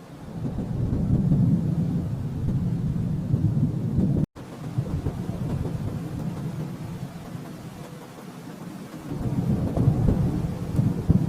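Rolling thunder rumbling: a low rumble swells in, cuts out for an instant about four seconds in, eases off, then builds again near the end.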